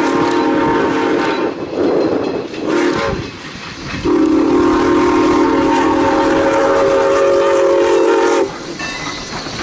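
A train sounding a multi-note chime signal: a blast ending about a second and a half in, a short note around three seconds, then one long steady blast, the grade-crossing pattern's close. Rail rumble and wheel clatter run underneath.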